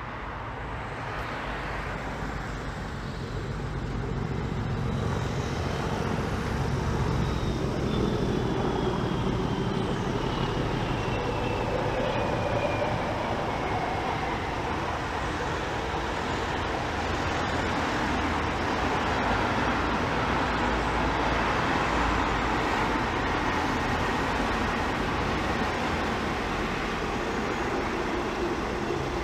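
A diesel locomotive-hauled train running on the line, its engine noise swelling over the first few seconds and then holding steady. A thin tone falls in pitch in the first half.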